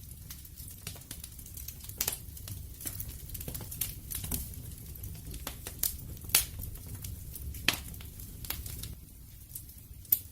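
Wood fire crackling, with irregular sharp pops and snaps over a low steady rumble of burning. The loudest snaps come about two seconds in, around six and a half and seven and a half seconds, and one near the end.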